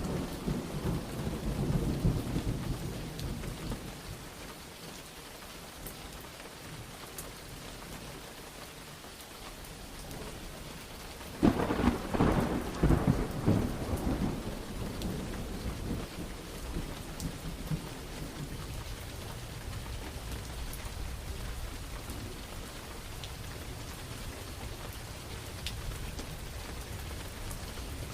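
Steady rain with thunder. A low rumble of thunder dies away over the first few seconds; then, about eleven seconds in, a sudden loud clap of thunder rolls on for several seconds before fading back to the rain.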